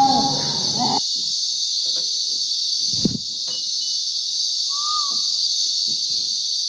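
Steady, dense high-pitched insect chorus of rainforest cicadas or crickets. In the first second the tail of a loud wailing animal call breaks off abruptly, and a short whistled call comes about five seconds in.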